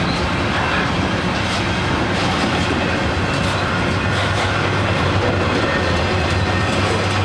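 Canadian Pacific freight train's cars rolling past: a steady rolling noise of steel wheels on the rails, with a few faint wheel clicks over rail joints.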